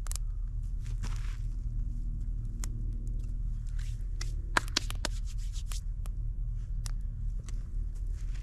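Wood campfire crackling, with irregular sharp snaps and two louder pops a little past the middle, plus a few brief rustles over a steady low hum.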